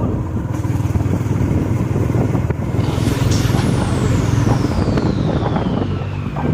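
Motorcycle engine running steadily while riding. About three seconds in, a thin high tone starts and slides steadily down in pitch over the rest of the stretch.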